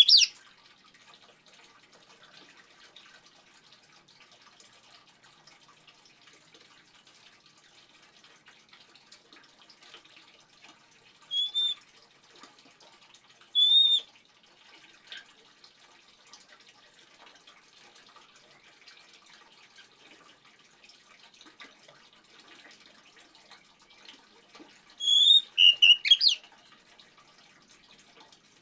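Oriental magpie-robin (kacer) giving short clear whistles over a steady faint trickle of water: single notes at about 11 and 14 seconds in, and a quick run of song notes near the end.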